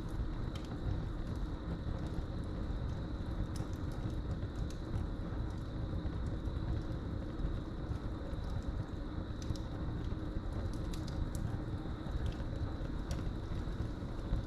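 Wood fire burning in a fireplace, a steady low rush of flame with scattered sharp crackles and pops, over a continuous high-pitched trill of crickets.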